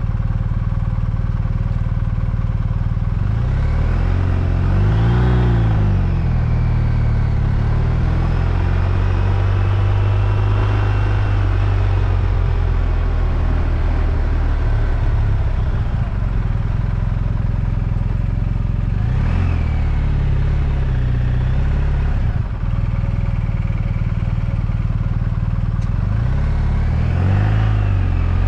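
BMW R1250RT's boxer-twin engine running under way, with steady wind and road noise; its pitch rises and falls three times as the revs change.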